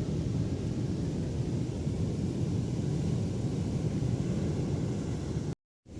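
Steady low rumble of surf with wind on the microphone, breaking off for a moment near the end.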